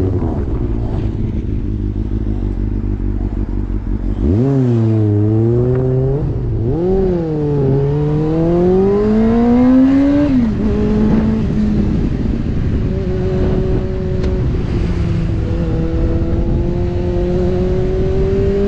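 Kawasaki motorcycle engine under way: quick blips of the throttle about four seconds in, then a long pull up through the revs that drops sharply at a gear change about halfway, then a slow, steady climb in pitch. A low rushing noise runs underneath.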